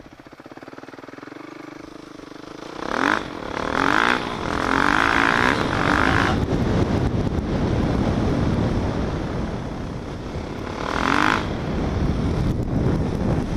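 Dirt bike engine running, quiet at first, then revving up loudly about three seconds in as the bike rides, with a heavy rush of noise over it and another rev near the end.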